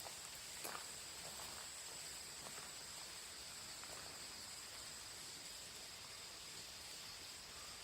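Insects chirring steadily, making two high continuous tones, with a few faint light ticks in the first few seconds.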